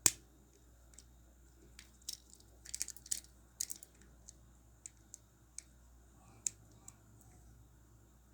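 Sharp clicks and taps of the small plastic-and-metal motor bogie of a Ferrorama ED75 toy locomotive being handled. There is a loud click at the start, a quick cluster of clicks about three seconds in, then scattered lighter ticks.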